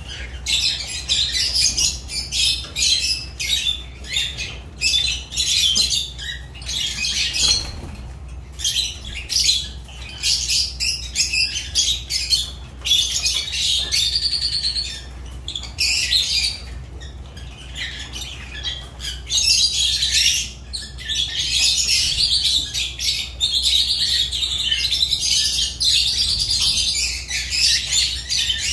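A group of lovebirds chattering without pause: many overlapping shrill chirps and squawks in quick succession, with only brief lulls.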